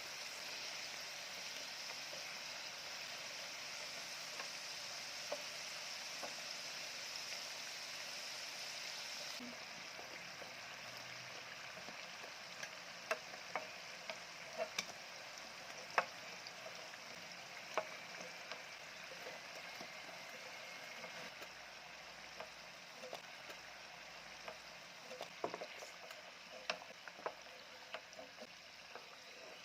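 Food sizzling in a frying pan with a steady hiss. From about a third of the way in, it is stirred, the utensil clicking sharply against the pan at irregular moments.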